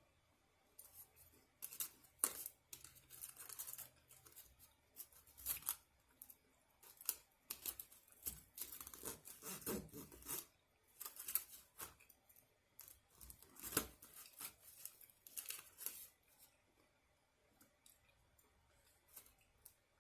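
Irregular bursts of tearing and rasping, something being torn or cut apart by hand, for about fifteen seconds, then only a few faint ticks.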